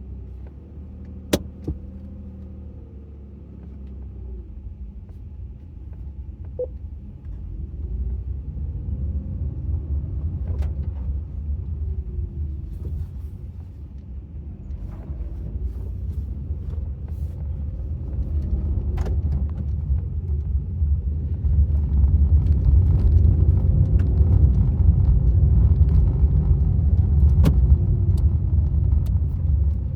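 Maruti Suzuki Swift VXi being driven: a low engine and road rumble that grows steadily louder as the car picks up speed. A few sharp clicks stand out, two near the start and more later on.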